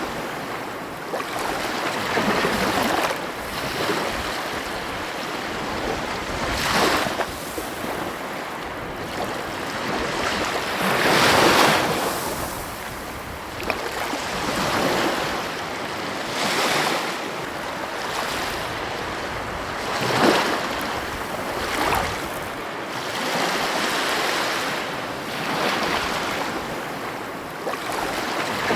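Ocean surf: waves breaking and washing in a continuous rushing noise that swells with each wave every few seconds, the biggest surge about a third of the way through.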